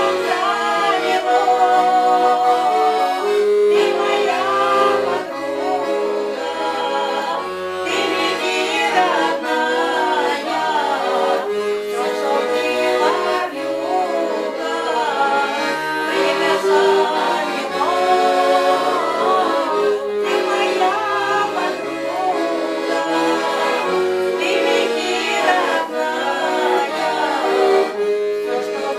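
Accordion music: a melody moving over held chords, playing steadily throughout.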